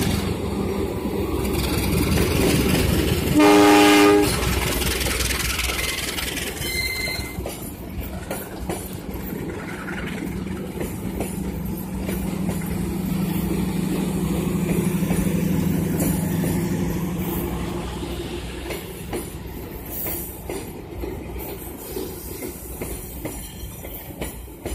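GE CC201 diesel-electric locomotive passing on a steel truss bridge, giving one short horn blast about three and a half seconds in, the loudest sound. The passenger coaches then roll across the bridge with wheel clatter and a steady rumble that fades near the end.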